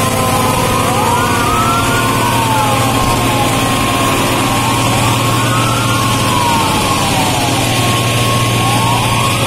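Several sirens wailing at once, their pitches rising and falling out of step with one another over a steady tone, with a steady low hum beneath.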